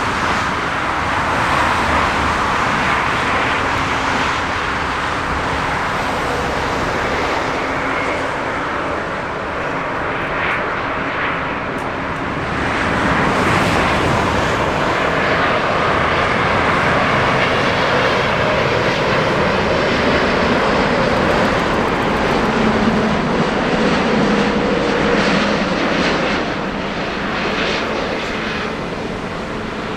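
Jet airliner's engines, a loud, steady noise that swells about halfway through and eases off near the end.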